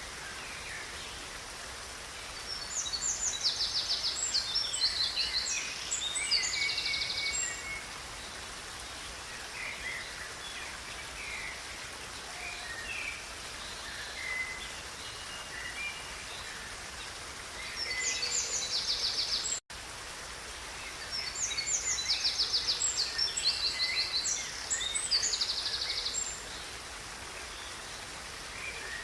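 Songbird singing long phrases of rapid trills and chirps, about twice in the stretch, over a steady rush of river water.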